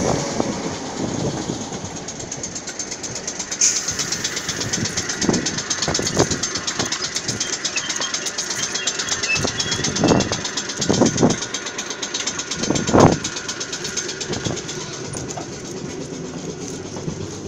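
Train running, heard from on board: a steady rumble with a few dull thumps, the loudest about two-thirds of the way through.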